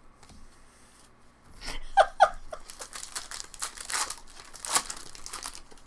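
Crinkling and tearing of a baseball card pack's wrapper as packs are opened and handled, a dense run of crisp rustles in the second half. A brief chuckle comes about two seconds in.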